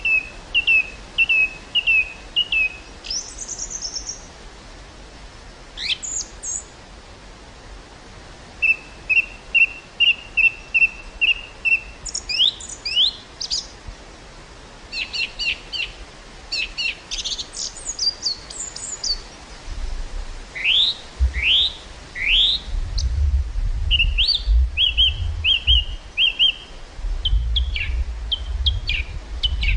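Small birds singing and calling: runs of quick repeated chirps and short rising whistles, on and off. In the second half, low gusts of wind rumble on the microphone.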